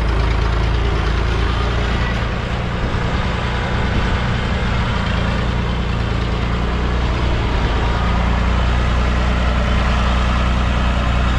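Massey Ferguson 230 tractor's engine running steadily.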